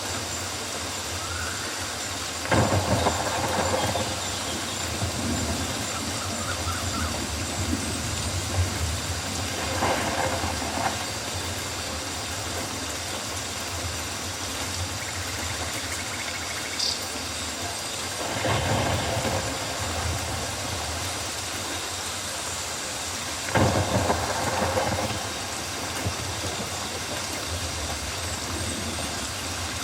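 Steady rainforest rain ambience, an even hiss of rainfall. Four times it swells louder for a second or two.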